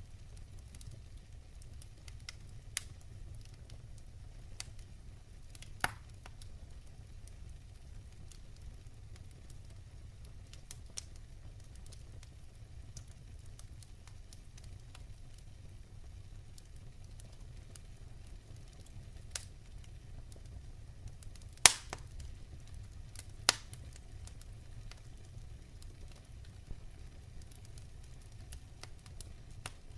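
Firewood burning in a fireplace: a steady low rumble with scattered sharp crackles and pops, two louder pops close together about three-quarters of the way in.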